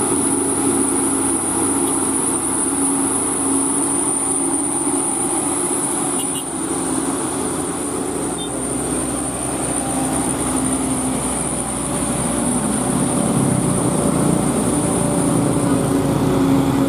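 Heavy diesel vehicle engine running steadily under load on a steep climb, getting somewhat louder near the end, with a thin high-pitched whine over it.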